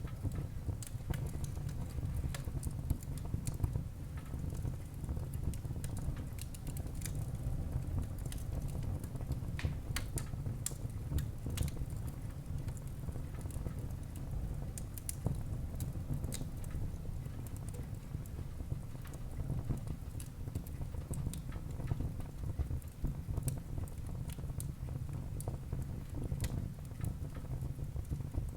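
Wood fire crackling in a fireplace hearth: frequent sharp pops and snaps of burning wood over a steady low rumble of the flames.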